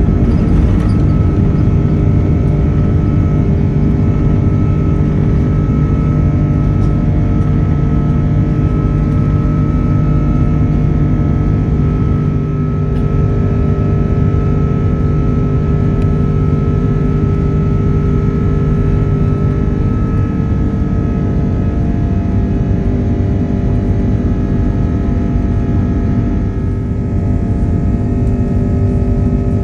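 Airbus A330-300 jet engines at high power during takeoff and climb, heard inside the passenger cabin: a loud, steady low drone with a steady high whine over it.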